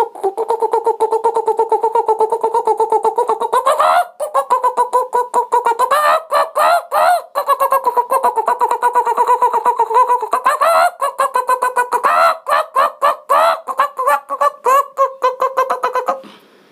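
A man imitating chickens with his voice: a rooster chasing a hen, with rapid clucking pulses at a steady pitch broken by several rising squawks. It stops shortly before the end.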